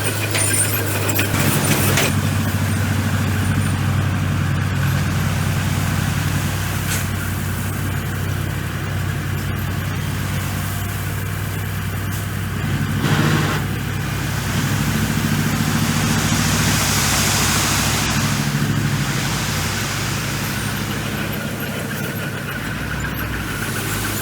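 Komatsu bulldozer's diesel engine running steadily with a low hum, with a brief louder burst of noise about thirteen seconds in.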